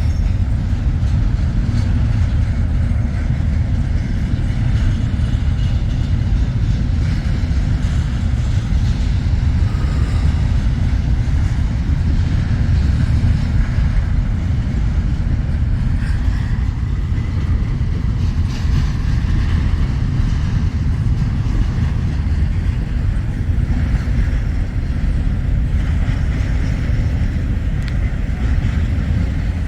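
Long freight train rolling past, a steady low rumble of its wheels on the rails.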